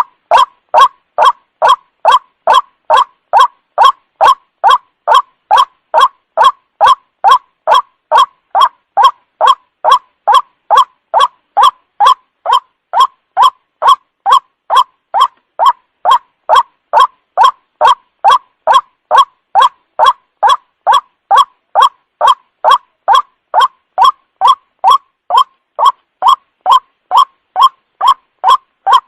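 White-breasted waterhen (ruak-ruak) calling over and over, short loud 'kwak' notes at an even pace of about two a second: the bird's monotonous calling, here a recording used as a lure to call the birds in.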